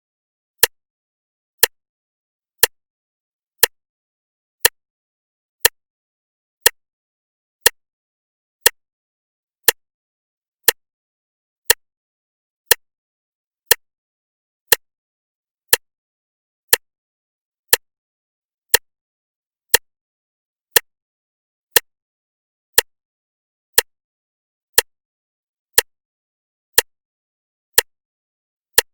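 Clock ticking steadily once a second, each tick a sharp click with silence between.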